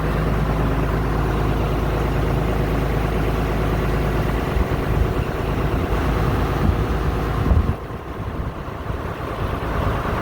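Snowblower engine running steadily with a deep hum. About three-quarters of the way through, the sound drops suddenly and thins out.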